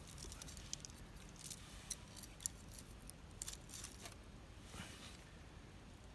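Wood campfire crackling: irregular small snaps and pops over a low steady rumble.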